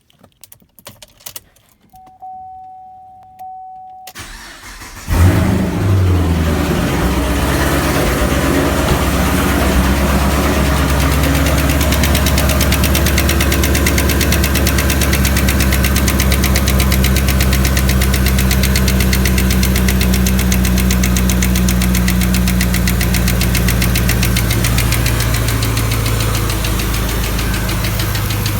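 A short steady tone, then the L99 6.2-litre V8 of a Chevrolet Camaro SS cranks and starts about five seconds in and idles steadily, its idle dropping slightly near the end. A fast, even ticking runs through the idle, which the owner takes for lifter tick.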